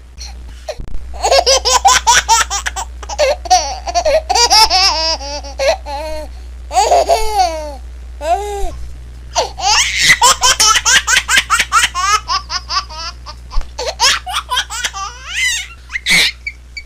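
A baby laughing in long runs of quick, high-pitched giggles and belly laughs, with a couple of short breaths between runs, over a steady low hum.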